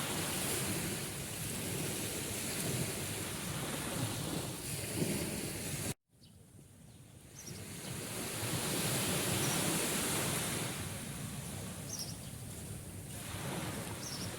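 Sea waves surging on a shore, a steady rushing wash. About six seconds in it cuts out abruptly for an instant, then swells back up over the next couple of seconds.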